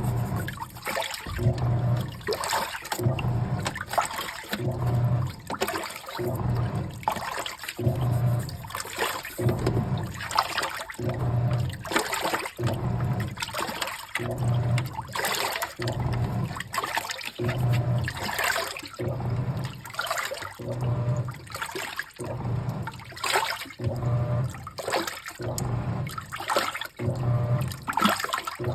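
Washing machine agitating water during a tub-cleaning run with washing-machine cleaner: water sloshes continuously while the motor hums in short pulses about every two seconds as the wash action reverses.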